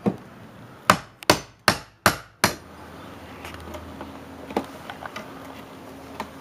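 Hammer striking the wooden stop of an old double-hung window frame to break it loose: about six sharp knocks in quick succession over the first two and a half seconds, then a few light taps.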